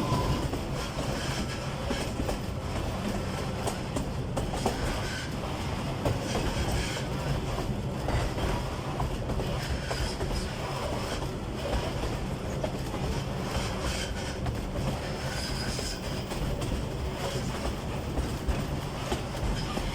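Narrow-gauge forest train hauled by an Mk48 diesel locomotive running along the track, with a steady low engine drone and rolling wheel noise.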